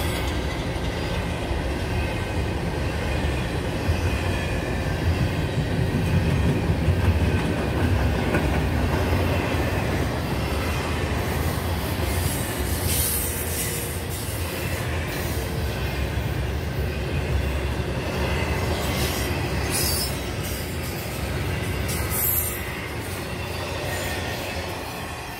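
Double-stack container well cars of a CN intermodal freight train rolling past: steady noise of wheels on rail, with a few brief sharp high-pitched sounds in the second half, fading near the end.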